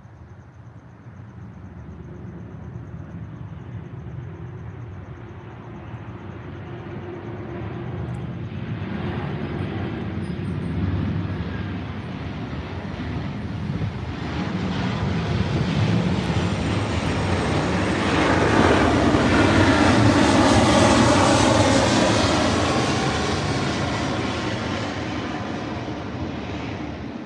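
An aircraft passing over: a rumbling engine noise that grows louder for about twenty seconds, peaks about three-quarters of the way through, then fades.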